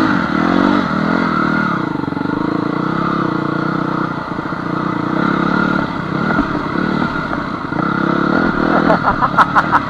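Honda CR250 two-stroke dirt bike engine running under way on a trail, revving up in the first second, then holding a steady pace with small rises and falls in pitch.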